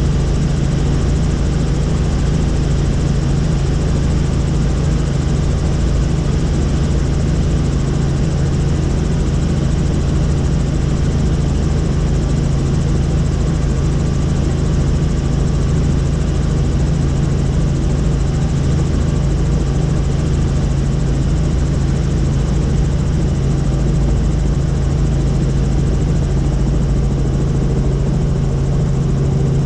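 Helicopter in flight, heard from on board: a loud, steady drone of rotor and turbine with a strong low hum that does not change.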